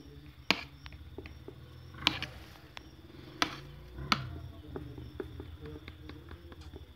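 Scattered small clicks and taps, four sharper ones spread through the first half and many faint ticks, over a low steady hum.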